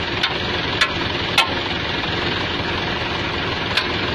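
Diesel tractor engine running steadily. Four sharp clicks sound over it, three in the first second and a half and one near the end.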